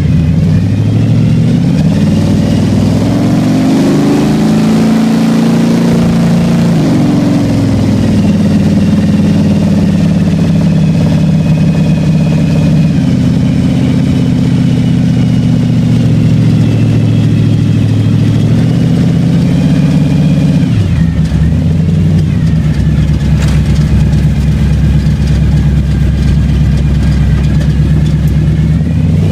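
Car engine and exhaust heard from inside the cabin while driving. The engine note rises over the first few seconds, falls about seven seconds in, holds steady, then drops about twenty seconds in and settles lower.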